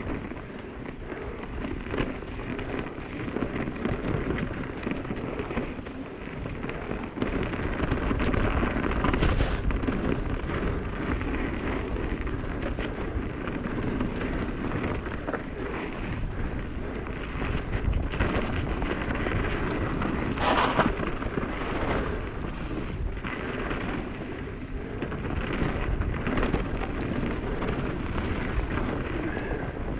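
Mountain bike riding along a dirt trail frozen in spots: a steady rumble of tyres over the ground, with frequent knocks and rattles from the bike over bumps, and a brief higher sound about two-thirds of the way through.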